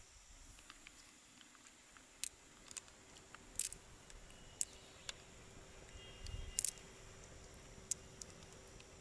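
Scattered sharp clicks and taps of hard objects, irregular and a second or so apart, the loudest a little past three and a half seconds and a cluster at about six and a half seconds, over a faint steady hum.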